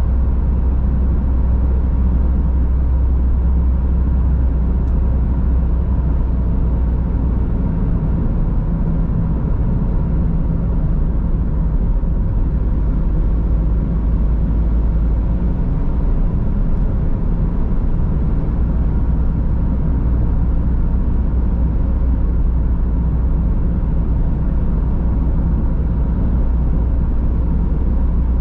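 Car driving at steady speed: a constant low rumble of engine and tyre road noise, heard from inside the cabin, with a faint steady whine above it.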